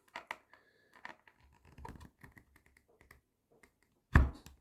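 Hands handling a leather case, with light scratching and small clicks, then a single louder thump about four seconds in.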